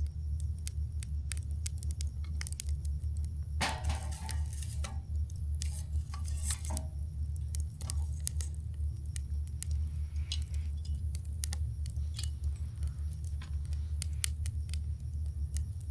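Campfire wood burning and crackling, with sharp pops scattered irregularly over a steady low rumble. A short hissing flare-up comes about four seconds in and another about six seconds in.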